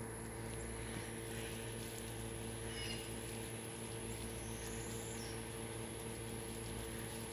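Steady outdoor background of a constant low machine-like hum and hiss, with a few faint bird chirps about three seconds in and again around five seconds.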